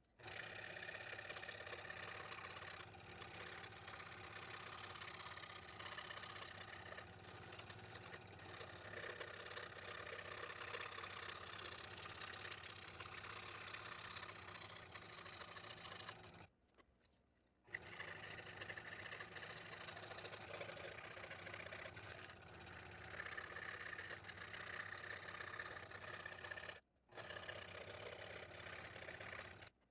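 Scroll saw running steadily as its blade cuts out small wooden ornaments, stopping abruptly twice: for about a second midway and briefly near the end.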